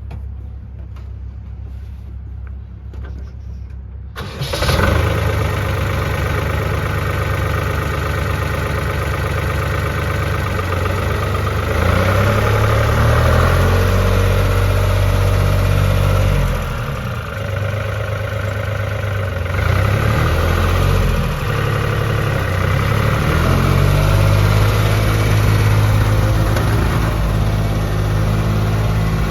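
Case JX55 tractor's diesel engine running as the tractor is driven around: faint at first, it suddenly gets much louder about four seconds in, then the engine speed drops and picks up again a few times in the second half.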